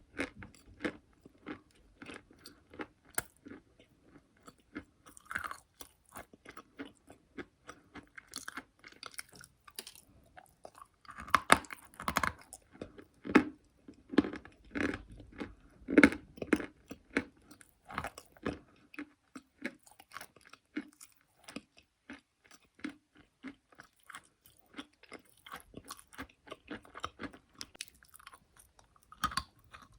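Chalk being bitten and chewed close to the microphone: a long run of crisp, irregular crunches, loudest and densest in the middle.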